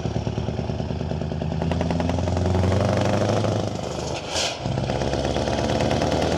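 Truck engine running with a steady, fast-pulsing rumble. It drops out briefly about four seconds in, during a short hiss, then picks up again.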